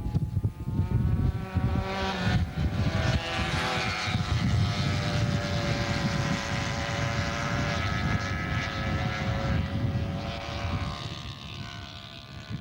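50 cc racing motorcycle engines buzzing at high revs, their pitch shifting up and down and then falling away and fading near the end, over wind rumble on the microphone.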